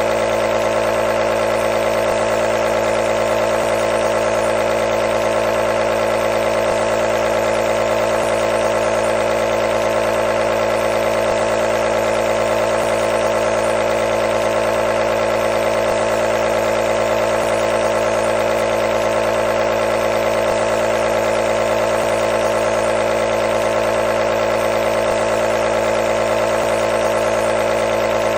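Nebulizer compressor running continuously: a steady, unchanging buzzing hum with a strong mid-pitched tone.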